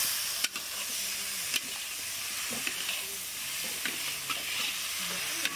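Boiled and fried elephant foot yam pieces sizzling in spiced oil masala in a black iron kadhai, stirred with a metal spatula that scrapes and clicks against the pan now and then.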